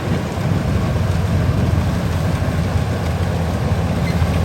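Kubota combine harvester's diesel engine running steadily with a deep, even rumble.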